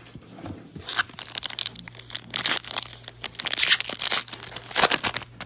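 Trading card pack wrappers being torn open and crinkled by hand: a run of irregular crackling rustles that gets louder toward the end.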